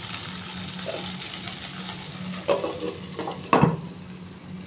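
Okra pieces sizzling as they fry in hot mustard oil in a nonstick pan. A couple of knocks come near the end, the louder one about three and a half seconds in as a glass lid goes onto the pan, after which the sizzle is muffled.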